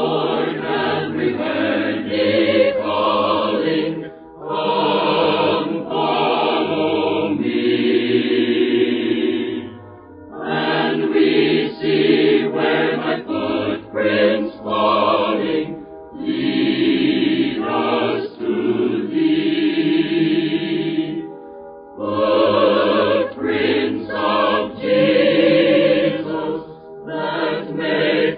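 A choir singing a hymn in phrases of about six seconds, with brief pauses for breath between them.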